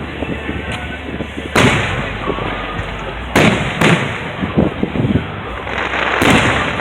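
Aerial fireworks shells bursting: four loud bangs spread through the few seconds, the middle two close together, with smaller pops and crackling between them.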